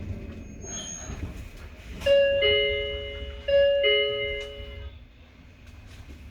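Hokuriku Railway 03 series door chime sounding a falling two-note ding-dong twice, each note ringing out, over the low rumble of the train car.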